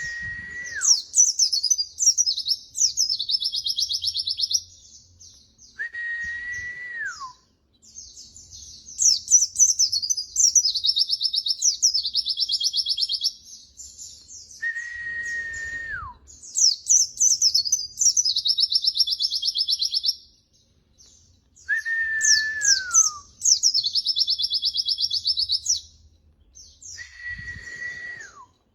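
Recorded songbird song played as a tutor track for white-eyes, repeating about every six seconds. Each phrase opens with a held whistle that slides down, then runs into fast high twittering and a buzzy trill.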